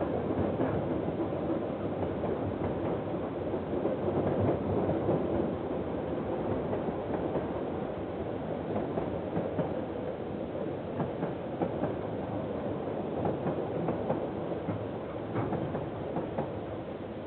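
Container freight train wagons rolling past in a steady rumble of wheels on rail, with a few faint clicks in the second half. Heard through a security camera's microphone, which cuts off the higher frequencies.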